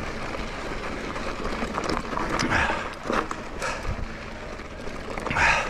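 Ride noise from an electric mountain bike on a dirt trail: wind rushing over the microphone and tyres rolling, with a few louder rushes of noise along the way.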